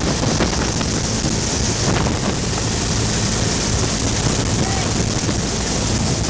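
Bell UH-1 'Huey' helicopter in flight: a steady, loud drone from its turbine and rotor, with wind rushing over the microphone.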